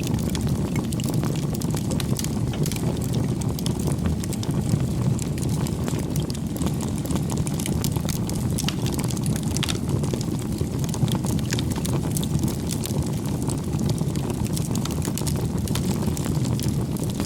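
Wood campfire burning: a steady low rumble of the flames with frequent small crackles and pops from the burning wood.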